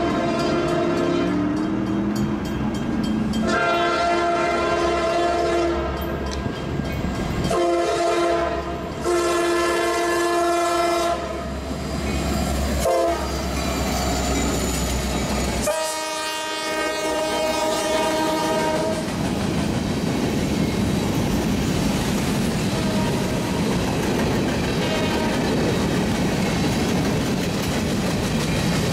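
EMD SD70MAC diesel-electric locomotive passing and sounding its air horn in several separate blasts, long and short, over the low hum of its engine. About two-thirds of the way in the horn stops and the steady rolling noise and clatter of covered grain hopper cars on the rails takes over.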